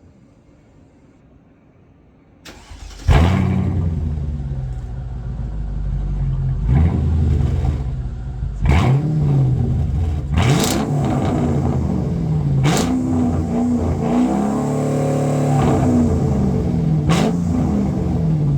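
2002 Mercedes CL500's 5.0-litre M113 V8, with its secondary catalytic converters and rear silencer removed, is cranked and starts about two and a half seconds in with a loud flare. It then idles and is revved in several short blips and one longer rise and fall.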